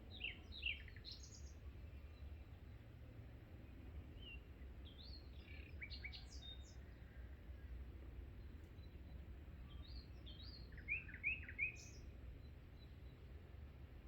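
Small birds chirping in three short runs of quick, high notes: near the start, around the middle, and a louder run about three-quarters of the way through. A low, steady background rumble lies beneath.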